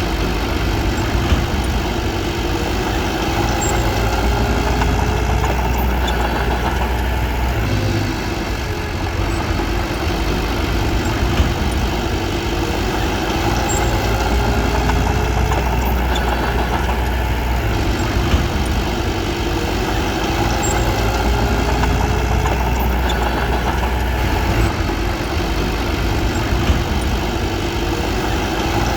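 Bulldozer's diesel engine running steadily with a low rumble, with a few brief sharp clanks.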